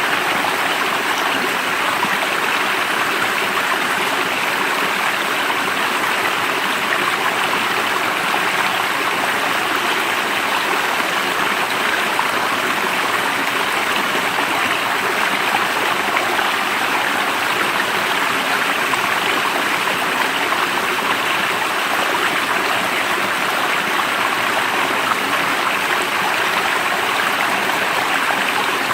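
Water of a stream running steadily, an even, unbroken flow.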